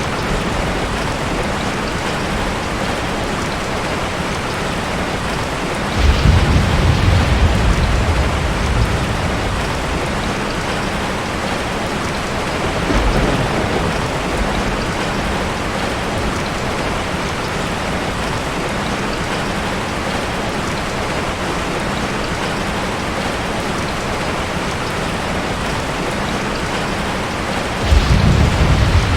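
Heavy rain falling steadily on a tin roof, with thunder rolling in three times: a loud rumble about six seconds in that fades over a few seconds, a lighter one midway, and another loud one near the end.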